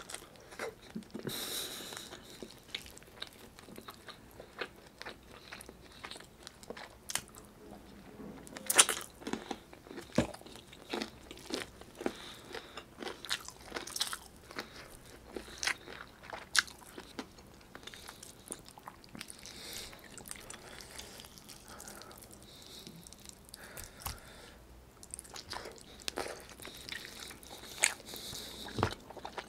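Close-miked wet chewing and lip smacking of a person eating saucy braised chicken adobo and rice by hand, with many short, sharp mouth clicks and bites.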